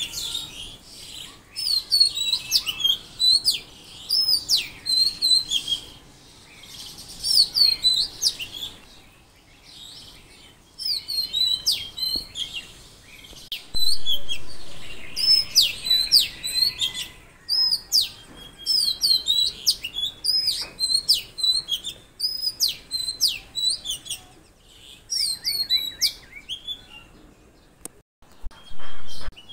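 Songbirds chirping, short quick sweeping calls repeated in bursts with brief lulls between them.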